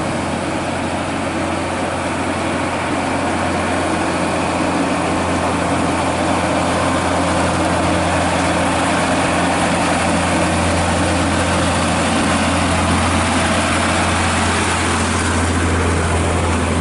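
Heavy truck diesel engine running steadily with a deep, even hum.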